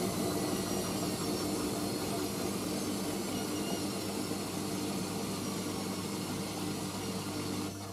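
Hoover AAA160 Whisper 1600 washing machine in its 800 rpm final spin: the drum and motor whir steadily and slowly ease off, then cut out abruptly near the end as the spin finishes.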